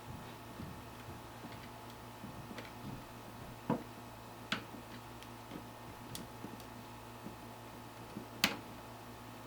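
Scattered small clicks and taps of hands working on computer parts inside a PC case, with three sharper clicks, the loudest near the end, over a faint steady hum.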